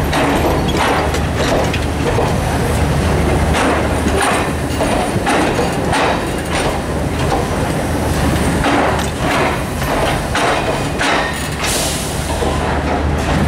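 Duronto Express passenger coaches rolling along the platform track, their wheels clacking over rail joints about once a second, over a steady low hum.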